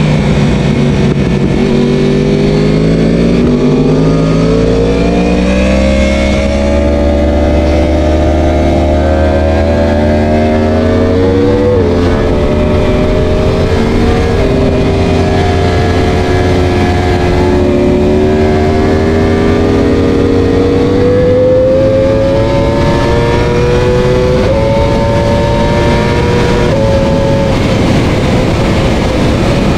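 Superbike engine heard on board at racing speed, its pitch climbing over the first ten seconds, dropping suddenly just before halfway, then rising again in small steps toward the end.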